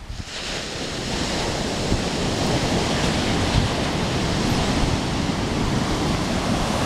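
Ocean surf washing up the beach: a steady rush of noise that builds over the first couple of seconds and then holds.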